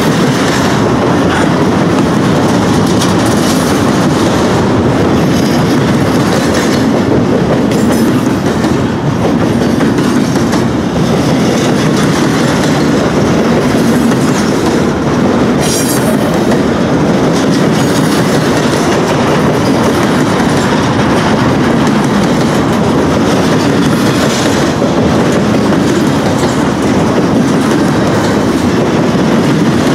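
Intermodal freight train passing close by at speed, a loud, steady noise of double-stack container and trailer cars rolling past on the rails.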